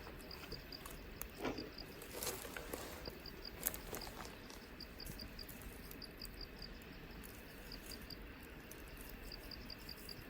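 Insects chirping in short high pulses, grouped in twos and threes and repeating. A few sharp clicks and knocks come in the first four seconds.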